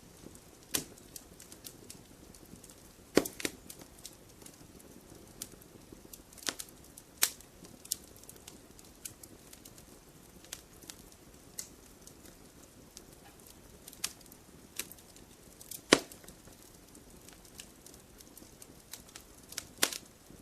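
Wood fire in a fireplace crackling: irregular sharp pops and snaps over a soft low hiss, the loudest pops coming about three seconds in and again near sixteen seconds.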